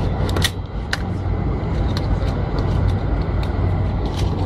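Boeing 747 cabin noise: a steady low drone from the engines and airflow, with scattered clicks and rattles of cabin fittings.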